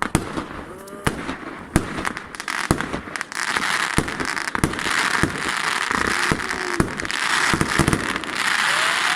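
Italian Power XXL fireworks going off: a rapid string of sharp bangs over a dense, steady crackling hiss that thickens from about three seconds in, with a few short whistles.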